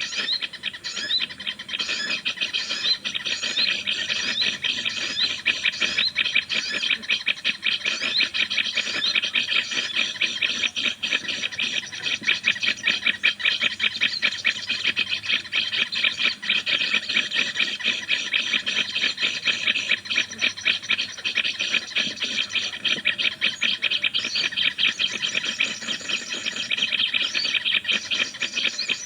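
Small birds chattering without a break: a dense, rapid run of high, quick chirps.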